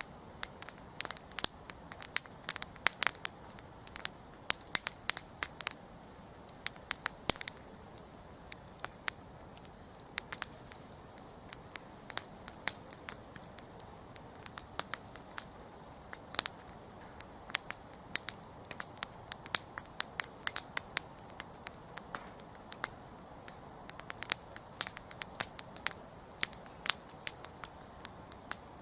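Wood campfire burning with irregular sharp crackles and pops over a soft steady hiss of flame.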